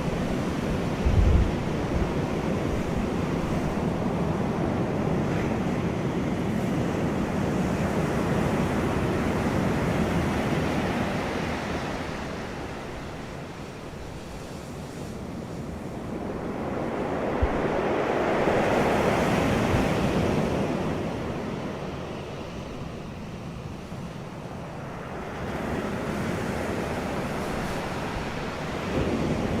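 Wind blowing over the microphone, rising and falling in long gusts with the strongest swell about two-thirds of the way through, and a short low buffeting thump about a second in.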